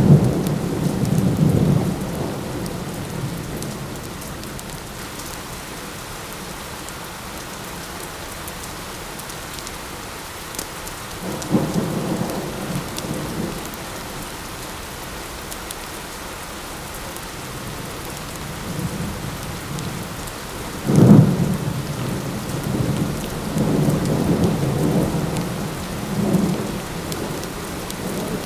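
Steady light rain with thunder rumbling low several times: a rumble at the start, another about a third of the way through, and the loudest, sharpest clap about two-thirds through, which rolls on in further rumbles.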